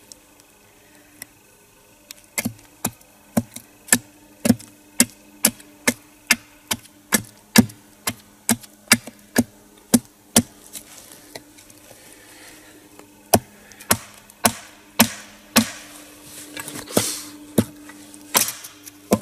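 Wooden wedges being hammered into the crack of a log to split it lengthwise. A steady run of sharp knocks, about three every two seconds, breaks off about ten seconds in, then resumes more unevenly.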